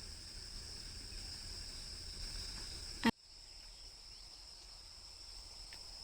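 Steady, high-pitched chorus of insects chirring in vegetation, with a single short sharp click about halfway through after which the background briefly drops away.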